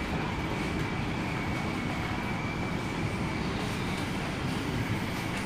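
MTR C-Train electric multiple unit heard from inside the carriage while running: a steady rumble of wheels on rail and traction equipment with a faint high steady whine over it.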